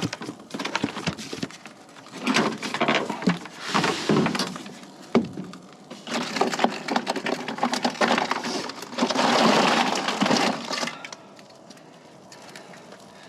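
Handling sounds as a can of beer is fetched: a busy run of sharp clicks, knocks and crackling, with a steadier rushing noise for about two seconds after the middle.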